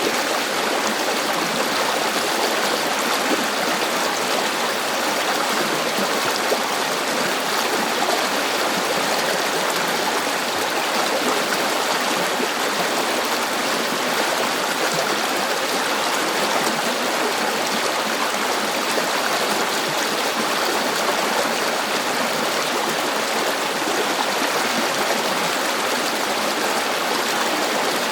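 River water flowing steadily over rocks, a continuous even rush with no change.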